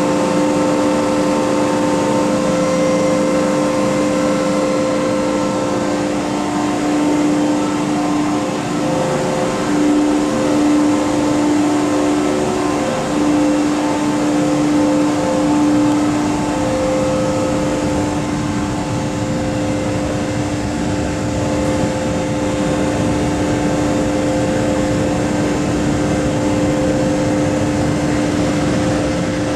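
MTR Kwun Tong Line M-Train electric train running, a continuous rumble with several steady whining tones held throughout.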